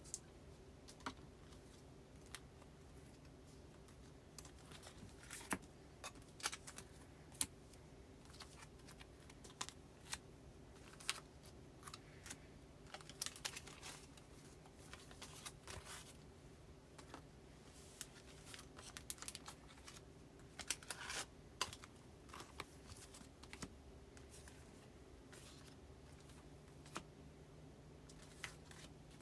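Postcards and plastic binder sleeves being handled during filing: irregular light clicks, taps and faint paper rustles.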